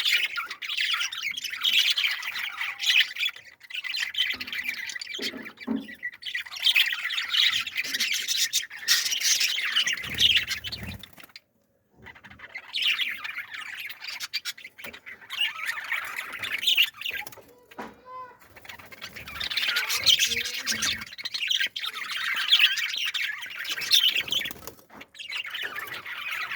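A group of birds chirping and squawking in a dense, continuous chatter, breaking off briefly about eleven seconds in.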